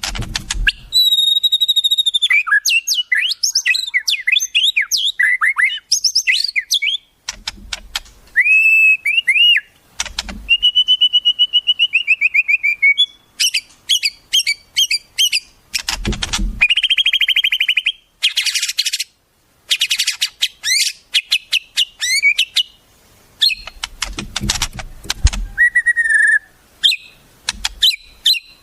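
Songbirds singing a varied song: clear sliding whistles, rapid runs of sharp chips, and buzzy trills in quick succession. Dull low thumps come through a few times.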